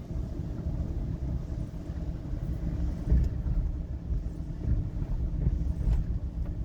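Low, steady road and engine rumble inside a moving car, with a brief louder thud about three seconds in.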